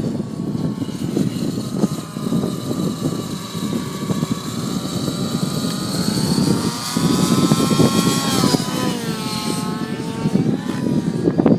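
T-REX 700 nitro RC helicopter in flight, its two-stroke glow engine and rotor whine rising and falling in pitch as the throttle and rotor load change, with a quick swing down and back up about two-thirds of the way in. Strong wind buffets the microphone with a low rumble throughout.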